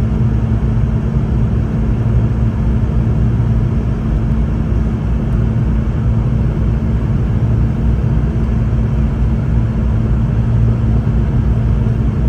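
Steady cabin drone inside a Boeing 717-200 in flight: the rear-mounted BMW Rolls-Royce BR715 turbofans hum at a held pitch over a constant rush of air past the fuselage.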